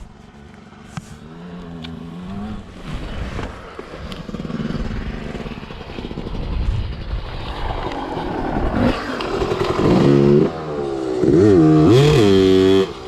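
Off-road trail motorcycle engine revving, getting louder, with several quick revs rising and falling in pitch in the last few seconds, the loudest just before the end.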